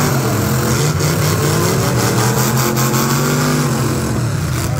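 Demolition derby cars' engines revving hard, several at once, as the cars push against each other with wheels spinning; the pitch climbs early on and eases off near the end.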